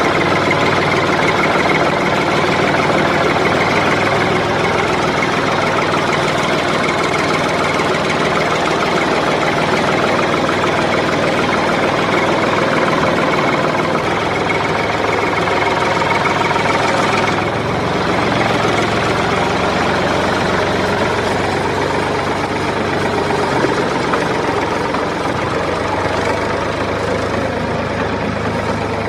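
Tractor engine running steadily; its note changes about eighteen seconds in.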